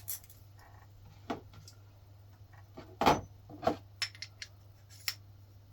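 Small steel parts clinking as shims and rockers are slid onto an air-cooled VW engine's rocker shaft: a handful of short metallic clicks, the loudest about three seconds in, over a low steady hum.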